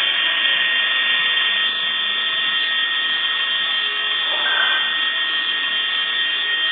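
Helicopter turbine engine running with a steady whine over a rushing noise.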